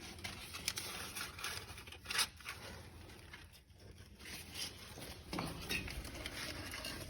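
Kindling crackling and snapping in a fireplace lit for the first time, over a low rumble of strong wind in the chimney; one sharper snap about two seconds in.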